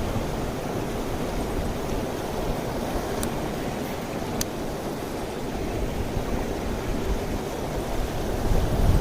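Mountain stream rushing steadily over rocks, with two faint clicks about three and four and a half seconds in.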